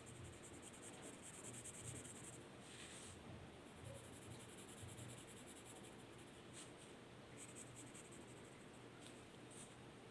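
Faint scratching of drawing strokes on paper, a few short strokes among a soft hiss.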